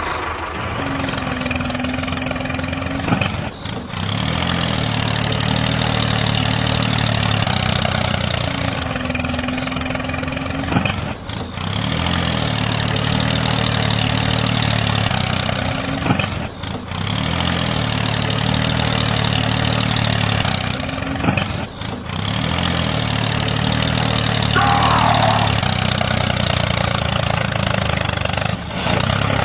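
Tractor engine sound starting and idling, in sections that break off abruptly every five or six seconds and begin again.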